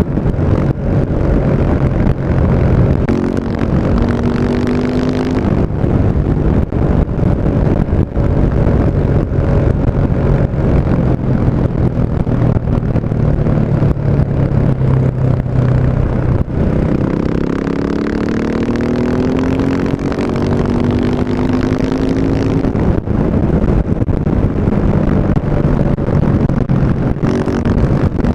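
KTM 690 Enduro's single-cylinder engine running through an Akrapovic exhaust, loud and steady. Its pitch rises a few seconds in, drops with a brief dip in loudness about two thirds of the way through, then climbs again.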